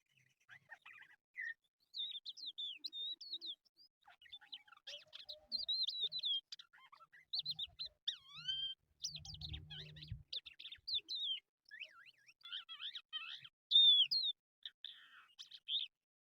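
Crested lark singing: a long run of varied, quickly gliding whistled and warbled phrases with short pauses between them. A brief low hum sounds under the song about nine seconds in.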